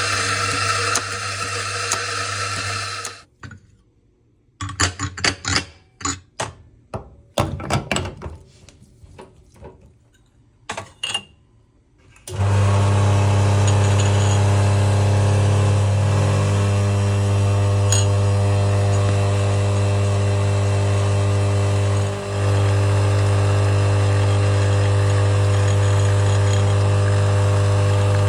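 Scattered clicks and knocks, then an espresso machine's electric pump starting about 12 seconds in and running with a loud, steady hum for the rest, with a brief dip partway through.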